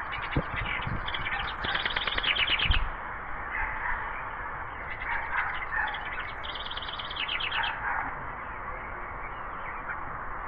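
A small songbird singing two fast trills, each a rapid run of high repeated notes lasting about two to three seconds, the second starting about five seconds in. A steady hiss of outdoor background noise runs underneath.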